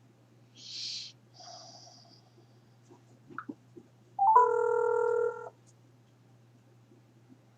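A mobile phone placing a call on speaker: a short rising chirp, then a steady electronic ringing tone a little over a second long, a little past the middle. A brief hiss and a few faint taps come before it.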